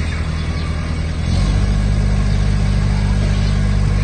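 Toyota forklift's diesel engine running steadily, getting louder about one and a half seconds in and holding there.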